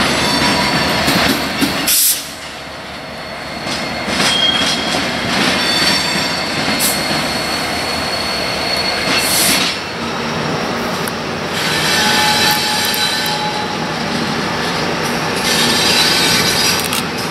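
Freight train rolling on steel rails, its wheels squealing in thin high tones that come and go over a steady rumble. The sound drops off abruptly about two seconds in and then builds again.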